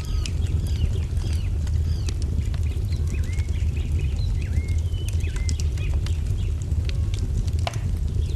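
Wood fire crackling, with a steady low rumble and scattered sharp pops, while birds chirp over it in quick short calls, busiest in the first few seconds.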